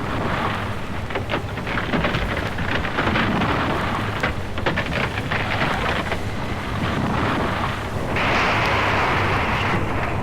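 Storm sound effect: dense rain-like noise with crackles over a low rumble, and a louder rushing surge about eight seconds in.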